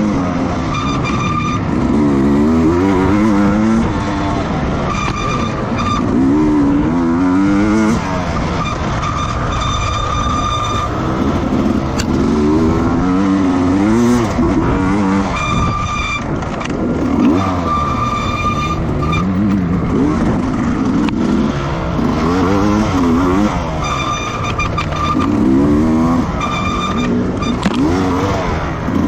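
Racing motorcycle engines running hard on track, their pitch rising and falling again and again as the riders accelerate, shift and brake through the corners.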